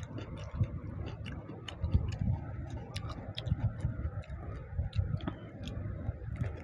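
Chewing, with one person biting into and eating a raw tomato: irregular mouth clicks and smacks, several a second, over soft low thumps.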